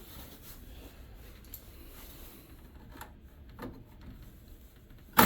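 Faint handling noises of wires and tools being worked by hand, with a single sharp click near the end.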